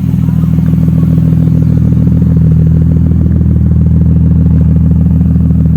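A car engine idling loudly with a fast, even exhaust pulse, its level rising a little about a second in.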